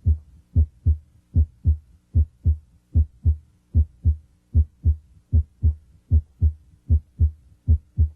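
Normal heart sounds heard through a stethoscope at the mitral area (cardiac apex): about ten heartbeats at roughly 75 a minute, each a pair of short low thumps, S1 then S2. S1 comes from closure of the mitral valve and is usually the louder of the two at this site.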